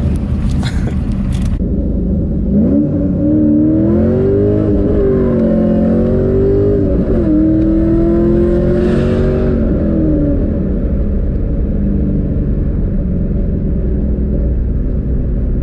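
Car engine pulling under acceleration: a droning note climbs about two and a half seconds in, holds with small rises and dips, and eases off after about ten seconds. A low rumble of engine and road noise runs underneath throughout.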